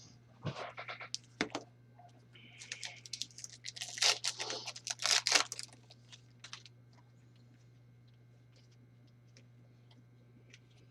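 Trading cards and foil packs being handled: a run of rustling, scraping and clicking sounds, loudest about four to five seconds in, that dies away after about six and a half seconds, leaving a faint steady hum.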